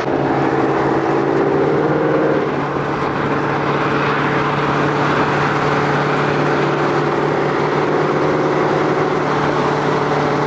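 Ford Mustang GT's 5.0 V8 engine running steadily at cruise under way, with constant road and tyre noise; the engine note rises slightly in the first couple of seconds, then holds.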